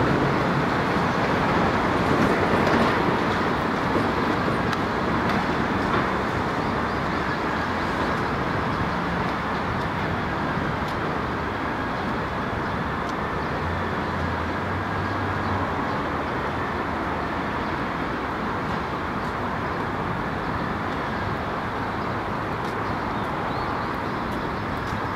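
Passenger train rolling away over curved track: a steady rumble of wheels on rails that fades over the first half, then holds at a low, even level.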